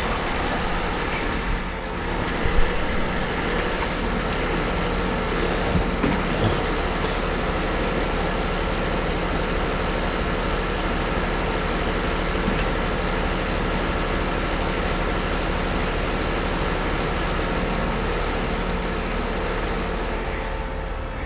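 Diesel engine of a timber delivery lorry running steadily while its log crane is being worked, with a couple of short knocks in the first few seconds.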